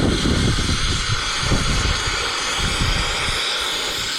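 A loud, steady rushing noise with ragged low rumbling buffets that ease off near the end.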